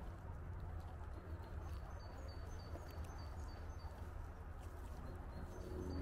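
A small songbird repeating a high two-note phrase, about three notes a second, in two runs with a pause around the middle. Underneath are footsteps on a path and a steady low rumble.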